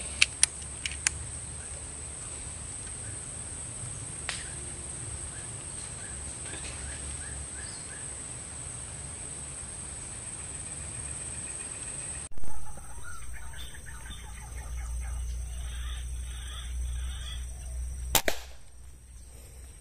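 Rifle shot at a green pigeon near the end: a sharp crack and a second crack right after, and the shot hits the bird. A sudden loud thump comes about twelve seconds in, and a few sharp clicks at the start, over a steady outdoor background.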